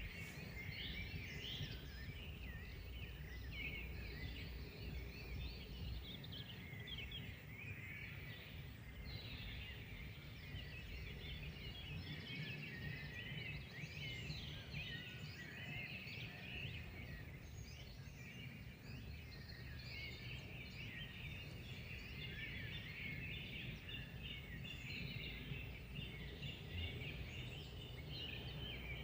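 A dense chorus of many small birds chirping and twittering together without pause, over a steady low rumble.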